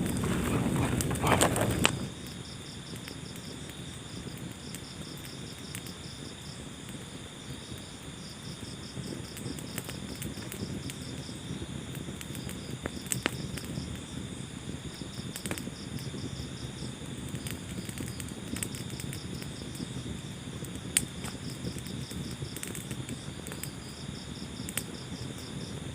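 Crickets chirping in repeated pulsed trills over the low rush and scattered sharp pops of a crackling wood fire. A louder rushing noise at the start drops off about two seconds in.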